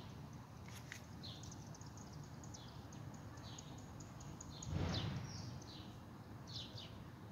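Small birds chirping over and over, short high notes several times a second, over a low steady background rumble. About five seconds in, a brief louder rush of noise swells and fades within about half a second.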